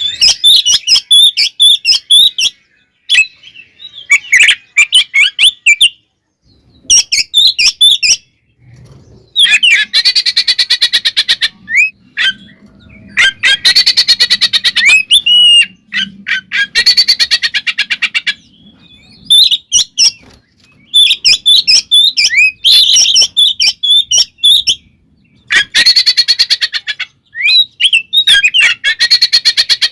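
Oriental magpie-robin (kacer) singing loud, aggressive fighting song. Varied whistled phrases alternate with several long bursts of fast, harsh rattling chatter, with short pauses between phrases.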